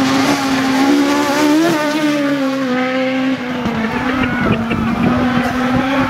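Race car engine held at high revs, its pitch wavering and slowly sagging, with a rough crackle in the exhaust note over the last couple of seconds.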